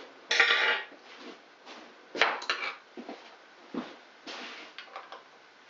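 Hand tools and small metal parts handled on a motorcycle engine: a short scrape about a third of a second in, then a scatter of metallic clinks and knocks.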